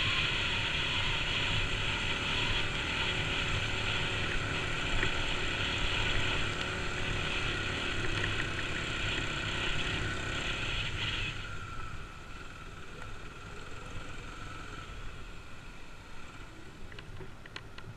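Kawasaki KLX250's single-cylinder four-stroke engine running on a trail ride. It runs steadily for about two-thirds of the time, then drops off and runs more quietly, as when the throttle eases.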